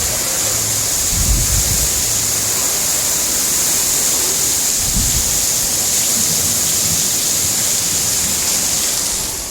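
Windstorm: a steady, loud rushing hiss of strong wind, with low gusts buffeting the microphone in the first couple of seconds and again about five seconds in. The hiss drops off just at the end.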